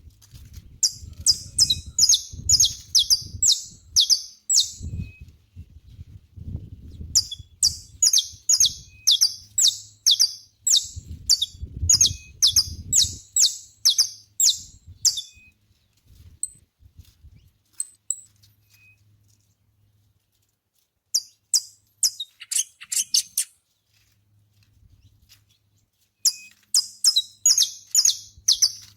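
Saffron finch singing in repeated phrases of quick, high chirps, a few notes a second, with pauses of several seconds between phrases. A low rumble sits under the first half.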